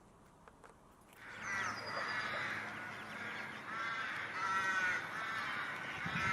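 A bird giving a run of harsh, repeated calls, about one a second, starting about a second in.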